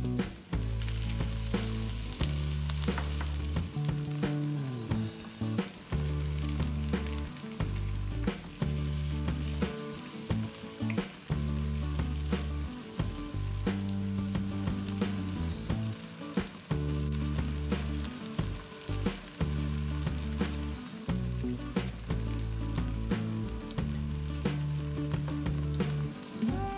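Onions, chillies and potato pieces sizzling as they fry in ghee in a non-stick wok, with a wooden spatula scraping and knocking against the pan as the food is stirred. Background music with low sustained notes changing every second or two runs underneath.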